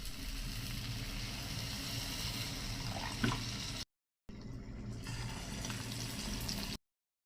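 Steady rush of water, in two stretches split by an abrupt cut to silence about four seconds in, with a low hum underneath.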